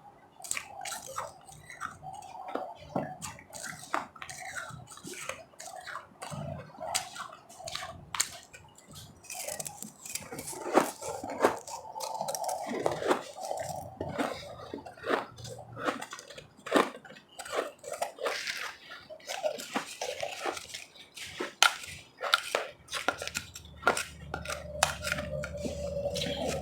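Ice being bitten and chewed close to the microphone: a dense, irregular run of crisp crunches and chewing.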